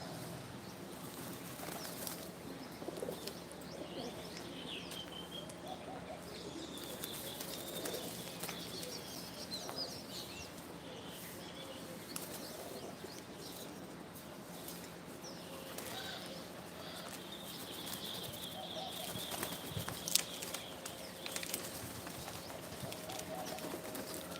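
Birds moving about, wings fluttering and flapping, with short high chirps and scattered light clicks; one sharper tap about twenty seconds in.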